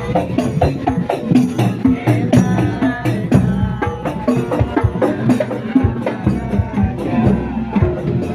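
Live Javanese barongan procession music: fast, busy drum and metal percussion strokes under a wavering melody line.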